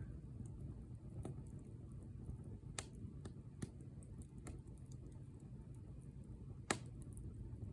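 Wood bonfire crackling: scattered sharp pops and snaps over a low steady rumble, with the loudest pop near the end.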